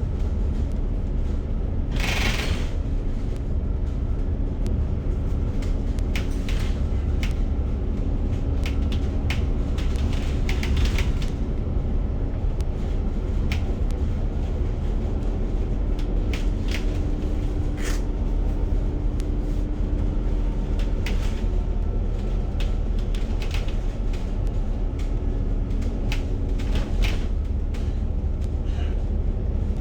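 Inside a moving bus: steady low engine and road rumble, with frequent rattles and knocks from the bus body and fittings. A short loud hiss comes about two seconds in.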